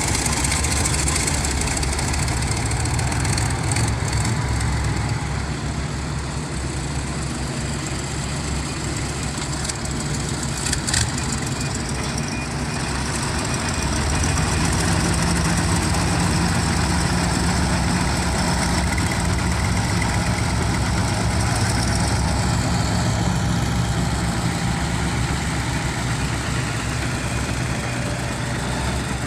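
Heavy diesel engine running steadily at low revs, with a brief knock about eleven seconds in.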